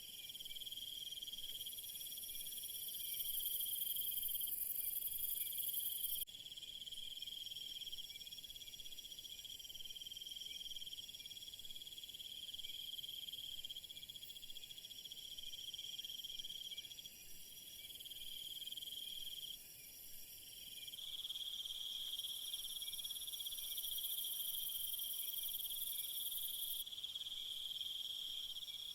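Chorus of crickets trilling steadily in high, continuous tones. The chorus changes abruptly twice, about six seconds in and about two-thirds of the way through.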